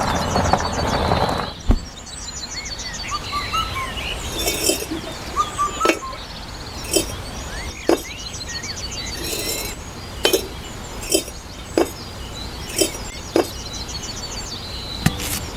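Small birds chirping, with a series of light, sharp clinks about once a second in the second half. Over the first second and a half there is a louder stretch of steady noise.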